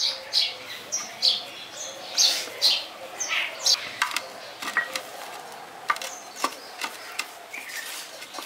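Small birds chirping busily: many short, high chirps, several each second.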